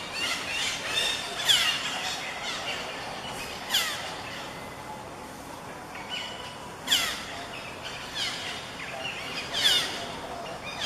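Parrots calling: loud, sharp calls that drop in pitch, about four times a few seconds apart, with fainter chirps between them.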